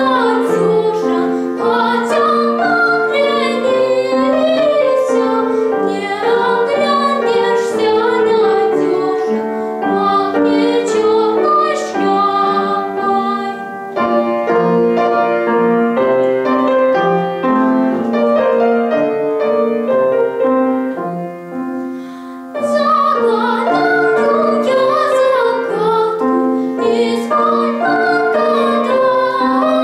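A young female singer sings a Russian folk song arrangement in a trained style with vibrato, accompanied by piano. The voice drops out for a piano passage midway and comes back in about 22 seconds in.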